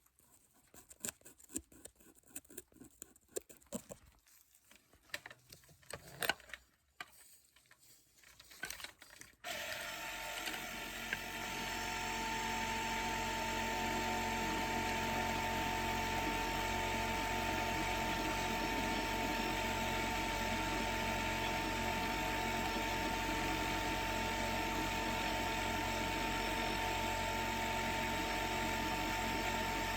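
Scattered light taps and clicks, then about a third of the way in a dental drill starts up and runs with a steady whine.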